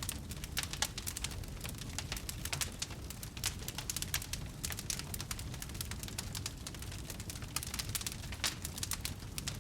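Wood fire crackling: dense, irregular sharp snaps and pops over a steady low rumble.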